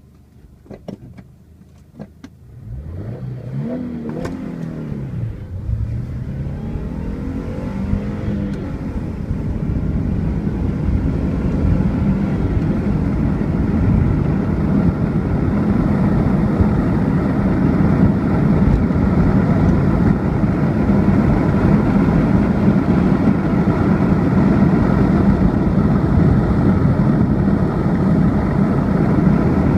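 Subaru Impreza 1.6TS flat-four engine accelerating hard from a standstill. Its pitch climbs and falls back at each gear change in the first several seconds. Then a loud, steady roar of engine, road and wind builds as the car runs on toward 130 km/h.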